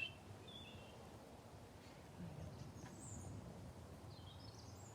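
Quiet outdoor background with a low steady rumble and a few faint, high bird chirps from small birds.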